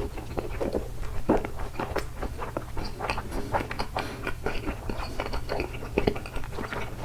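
Close-miked chewing of takoyaki: a quick, irregular run of wet mouth clicks and smacks as the soft balls are chewed.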